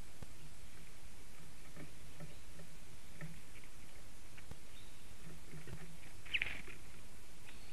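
Steady forest background hiss with faint scattered ticks and scratches, and one short, high chirp from a small bird about six seconds in.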